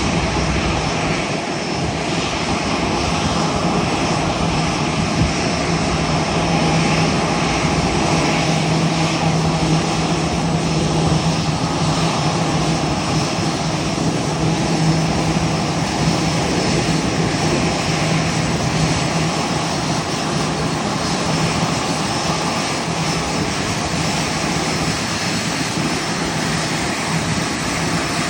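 Airbus A330-900neo's Rolls-Royce Trent 7000 turbofans running steadily: a constant jet drone with a strong low hum under a broad rush of engine noise.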